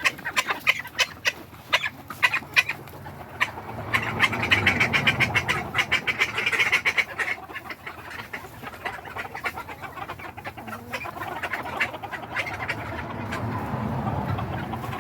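Backyard Silkie chickens clucking, with a run of sharp clicks in the first few seconds and a busier stretch of calls a few seconds in.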